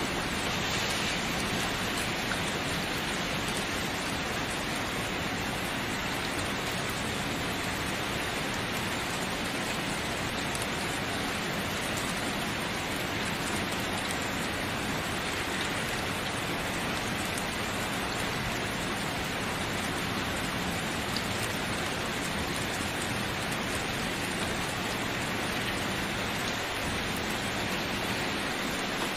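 Steady rain falling, an even hiss of many drops on a surface with no change in strength.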